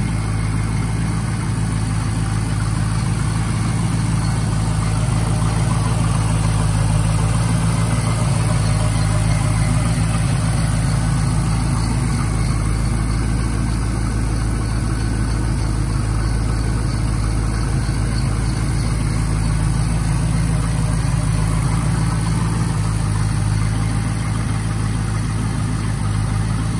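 A 2002 Chevrolet Camaro SS's LS1 5.7-litre V8 idling steadily, heard from beside the open engine bay.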